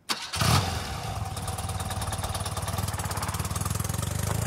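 BMW R100 Airhead flat-twin motorcycle engine running, louder for a moment about half a second in, then settling into a steady idle with an even pulsing beat.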